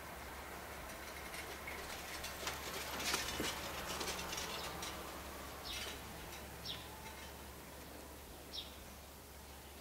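Short, high bird chirps repeating every second or two over a faint steady street background. About three seconds in there is a brief rise in noise with light rattling, as a bicycle passes close by.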